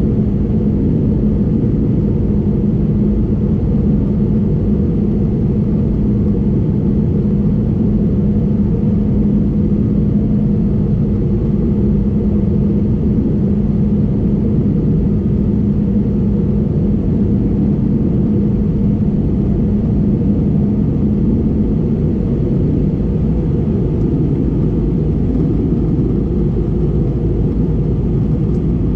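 Steady low cabin drone of an Airbus A320neo in flight, with the noise of its Pratt & Whitney geared turbofan engines and the airflow heard from inside near a window. A low steady hum runs through it and weakens a little near the end.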